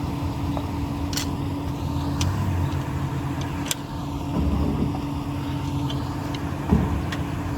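Chevy pickup truck's engine running steadily, with a few short sharp clicks.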